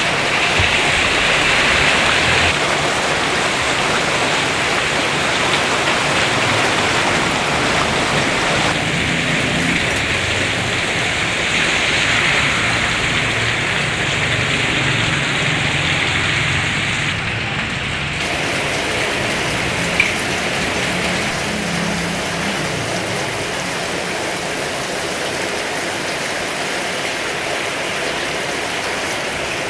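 Heavy rain pouring steadily, with a single sharp click about two-thirds of the way through.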